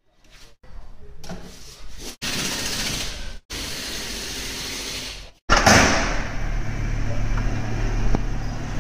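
Cut-up snippets of light handling noise as a wheel alignment target clamp is worked on a car wheel, then, from about five and a half seconds in, an Audi saloon's engine running steadily as the car is driven off for a test drive.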